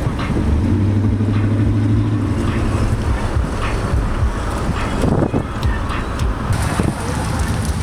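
Vehicle engine running while driving, a steady low hum under road and wind noise on the microphone.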